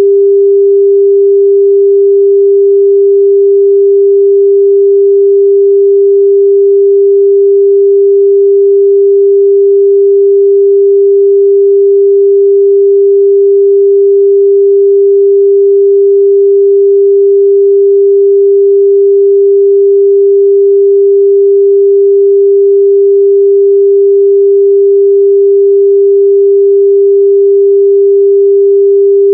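A steady, loud 398 Hz sine-wave test tone, a single pure pitch held without change.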